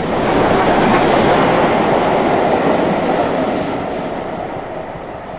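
A steam locomotive and its carriage running through at speed, the wheels rumbling on the rails, loudest about a second in and then fading as the train draws away.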